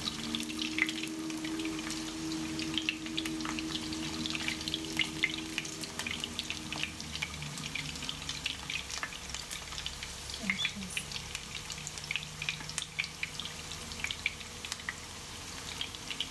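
Chicken patties frying in oil in a pan, with a steady crackle of sizzling and spitting fat. A low hum sits under it and fades about seven seconds in.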